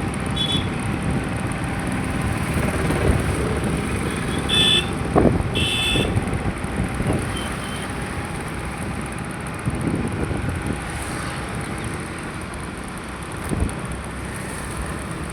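Road traffic noise with wind buffeting the microphone, and two short high horn beeps about five seconds in.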